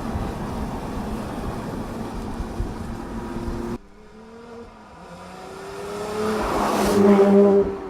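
Porsche 911 Speedster's four-litre naturally aspirated flat-six out on the road. First comes a loud, even rush of engine and road noise, which cuts off suddenly almost four seconds in. Then the engine note rises and swells to its loudest as the car passes, about seven seconds in.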